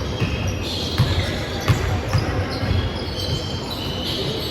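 Basketball being dribbled on an indoor court, repeated low bounces with a couple of sharper bangs around one and two seconds in, and short high squeaks scattered through.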